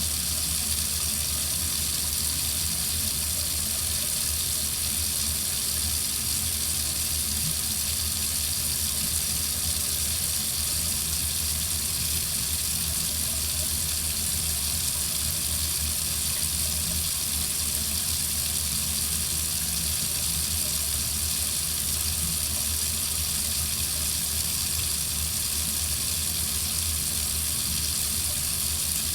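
Water faucet running in a steady stream, an even, unbroken rush of water with no drips or changes.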